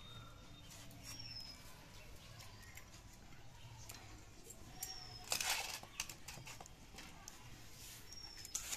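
Faint outdoor background with a few short, high bird chirps, scattered small clicks, and one brief burst of noise about five seconds in.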